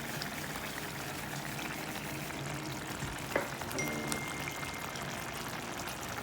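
Thick chicken masala gravy simmering in a pan, a steady bubbling sizzle, with one sharp click about three seconds in.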